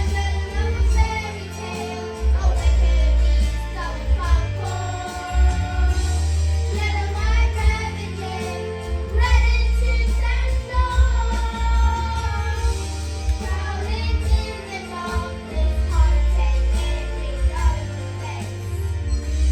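A group of young children singing a song together over backing music with a strong, pulsing bass.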